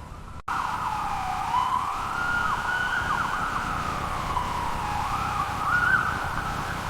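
Ambulance siren wailing, its pitch sweeping up and down over and over, cutting in suddenly about half a second in over a low rumble.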